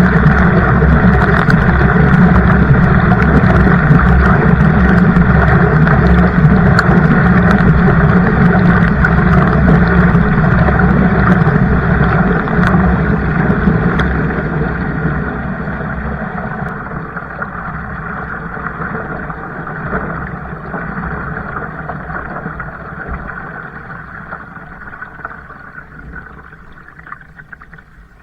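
Steady rushing noise of a kayak moving on the water, loud at first and fading gradually over the second half.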